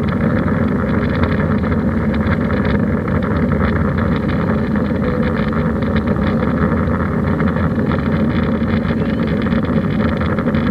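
Steady engine and airflow noise inside the cabin of an Airbus A320 under way on departure, a loud, even rumble with no change in pitch.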